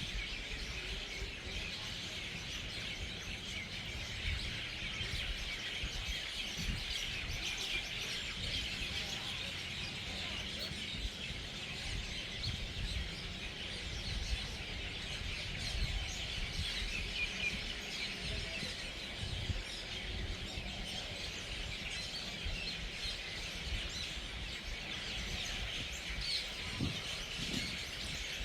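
Dense, steady chorus of a large flock of birds chirping and calling together as they gather at an evening roost.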